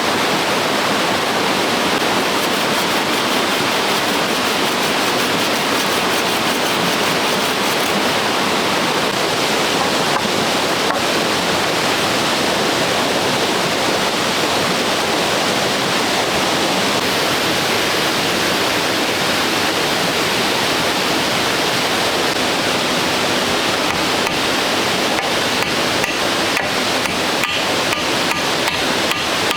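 Steady, loud rush of water. Near the end a run of sharp, regular taps begins over it.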